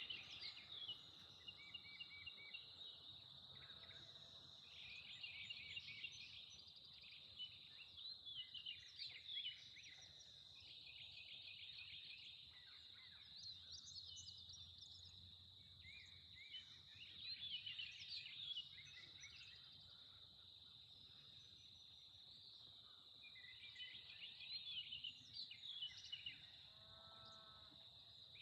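Faint outdoor ambience: birds chirping and trilling on and off over a steady, high-pitched insect drone. Near the end there is a short, lower animal call.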